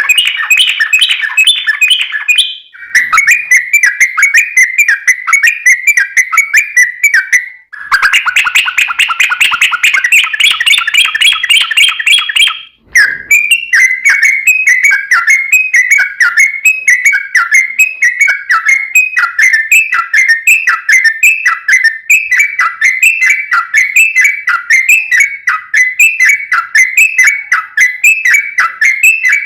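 Yellow-vented bulbul (trucukan) singing a long, fast string of repeated phrases, broken by three short gaps, then settling into an even run of falling phrases of about one and a half a second.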